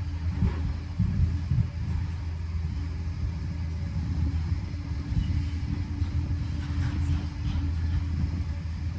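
Liebherr PR 746 crawler dozer's diesel engine running steadily with a low hum, a little louder about a second in.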